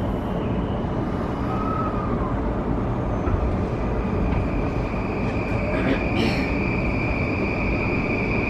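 E235-0 series electric train running, its Mitsubishi full-SiC VVVF inverter and traction motors humming over the wheel-on-rail rumble, the hum known to fans as the 'microwave oven' running sound. A steady high tone comes in about four seconds in, and a lower tone rises in pitch near the end.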